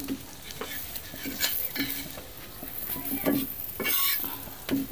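Besan papad frying in oil on a tawa with a light sizzle, while a metal spatula scrapes and taps on the pan as the papad is turned over. There is a louder hiss about four seconds in.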